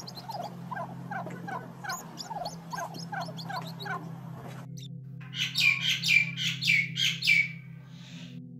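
Birds calling over a low steady drone. For the first four and a half seconds there is a quick run of short repeated calls, then after a brief break a series of about seven louder, sharp calls.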